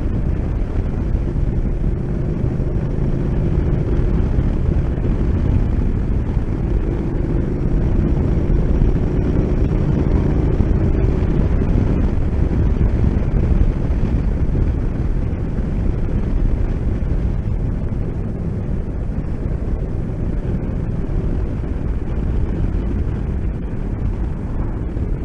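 Motorcycle on the move: steady wind rush over the microphone mixed with the engine running, with a faint engine tone audible through the first half.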